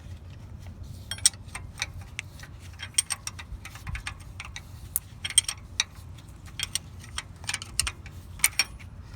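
Ratcheting wrench clicking in short, irregular runs of a few strokes as a bolt is worked in by hand.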